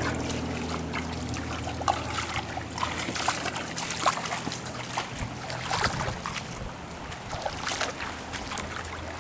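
Storm wind with water trickling and splashing in floodwater, and scattered sharp drips and splashes throughout. A low steady hum runs underneath.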